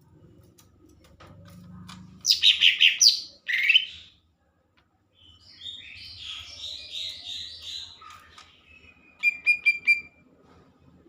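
A cucak ijo (leafbird) singing in separate phrases. There is a loud burst of harsh notes about two seconds in, a longer warbling phrase in the middle, and a quick run of sharp repeated notes near the end.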